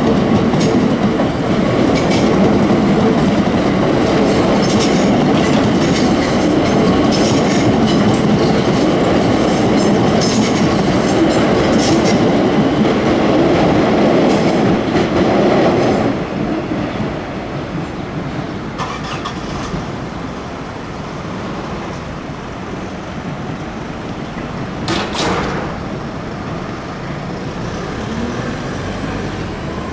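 Siemens Nexas electric suburban train running past on the tracks, its wheels clicking repeatedly over rail joints. The noise drops off sharply about halfway through as the train moves away, leaving a lower steady rumble with one short sharp noise near the end.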